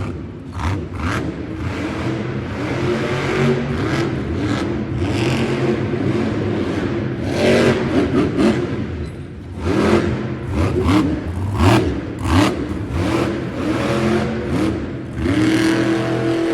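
Monster truck's supercharged V8 engine revving hard and repeatedly during a freestyle run, the pitch rising and falling with each burst of throttle, with sharp bangs and clatter in between.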